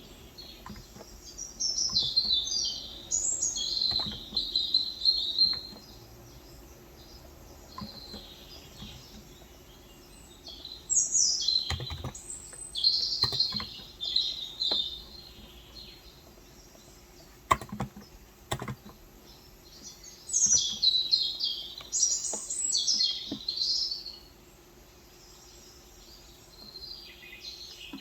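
Birds chirping in bursts of quick, high twittering song, with pauses of several seconds between bursts. A few isolated clicks of keys on a Cox Endeavor electrocapacitive keyboard fall between the bursts, two of them sharper about two-thirds of the way in.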